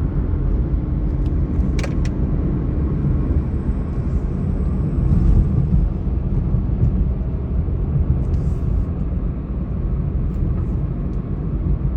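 Steady low rumble of a vehicle travelling, road and wind noise, with two sharp clicks about two seconds in.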